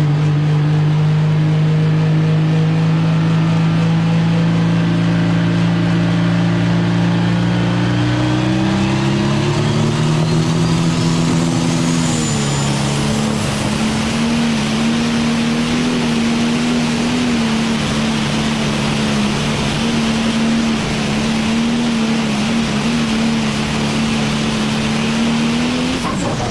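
Tractor-pull tractor's engine running hard under load. Its pitch climbs about a third of the way in, then holds high and steady with a growing rush of noise, and right at the end the engine is backed off as a whine falls away.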